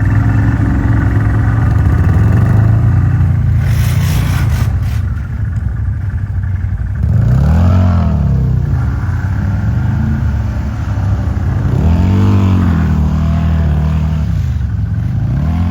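Quad (ATV) engine running, its pitch rising and falling back four times as the throttle is opened and closed. A short burst of noise about four seconds in.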